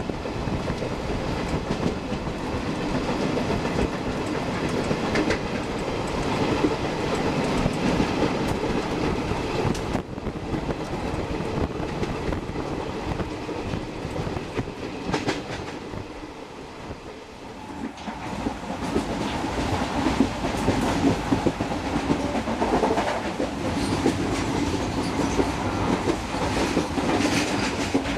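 Passenger train coach running at speed, heard from inside at the open door: steady rumble and wind rush with the clickety-clack of wheels over rail joints. The sound drops briefly a little past halfway, then comes back louder, with sharper knocks from the wheels.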